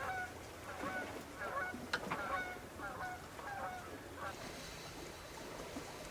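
Geese honking, repeated calls about two a second that thin out after about four seconds, when a faint steady hiss sets in.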